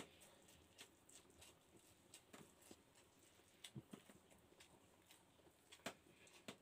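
Faint, scattered wet clicks and smacks of chewing a mouthful of pancit noodles eaten by hand, with a couple of sharper clicks near the end.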